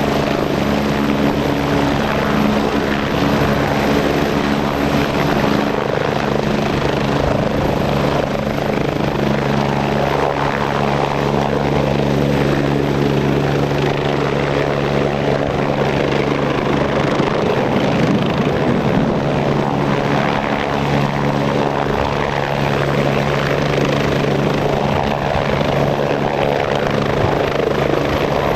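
Twin-engine Agusta A109E Power helicopter running steadily, its turbine and rotor sound holding an even pitch with a constant level, shifting slightly a few times.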